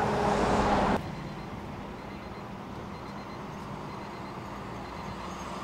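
Steady vehicle noise with a low engine hum. A louder rush of noise cuts off abruptly about a second in.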